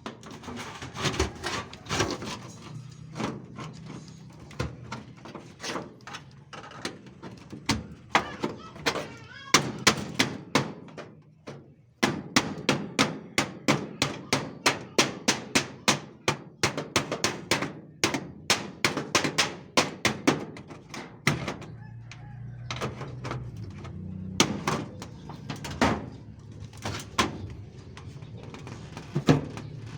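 Hammer blows in quick runs, about two to three sharp strikes a second, with short pauses between the runs.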